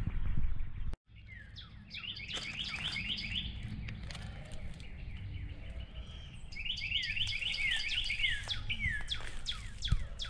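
A songbird singing: two bouts of a rapid series of short, repeated down-slurred notes, the second starting about six and a half seconds in, over a steady low rumble.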